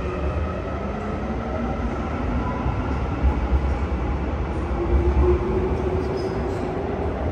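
Korail electric multiple-unit commuter train moving along an underground platform behind the screen doors: a heavy steady rumble with a traction-motor whine slowly falling in pitch. A second, lower whine rises about halfway through, and the sound is loudest about five seconds in.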